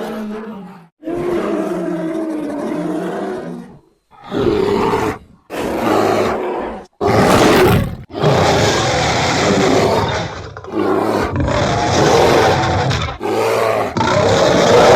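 A string of bear roars and growls, about eight in a row with short breaks between them, cut together from grizzly and cave bear recordings as a monster-creature sound effect.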